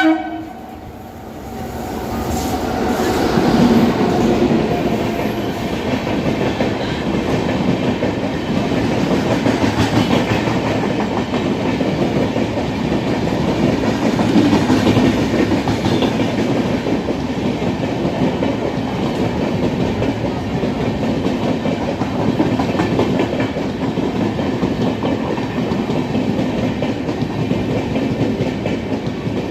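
Indian Railways express train rolling at speed: a steady heavy rumble with rapid wheel clatter over the rail joints, building up about two seconds in and holding. A short loud tone sounds right at the start.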